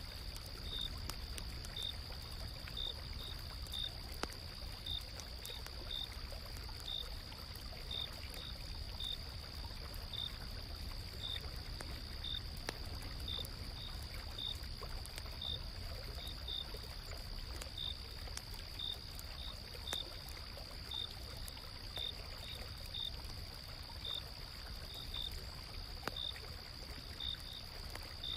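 Autumn night insects: one keeps up a continuous high trill while another gives short chirps about once or twice a second, over the low steady rush of a river, with faint scattered crackles of a campfire.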